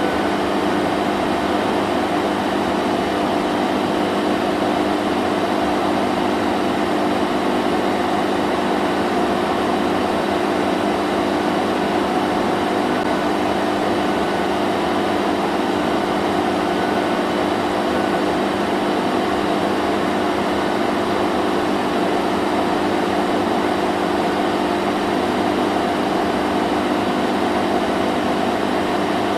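Vacuum cleaner running steadily, a constant whooshing motor hum with no change in pitch or loudness.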